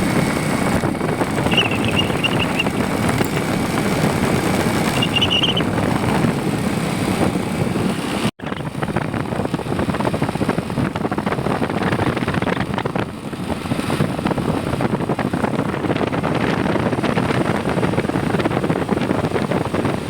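Steady rushing noise of a vehicle in motion, broken by a sudden cut about eight seconds in. Two short high chirps sound in the first few seconds.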